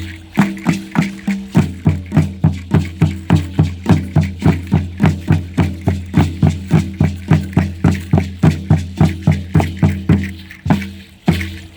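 A large ceremonial drum of the Mexica dance tradition, a huehuetl, beaten in a fast, steady rhythm of about four strokes a second, each stroke a deep tone. The strokes are sparser for the first second or so. Rattles shake along with the beat.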